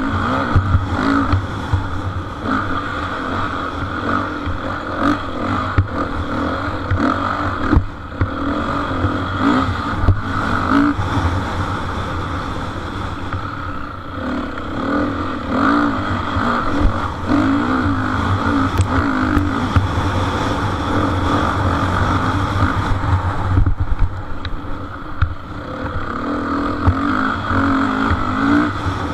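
Motocross bike engines running at high revs, their pitch rising and falling with throttle and gear changes, easing off briefly near the end before picking up again.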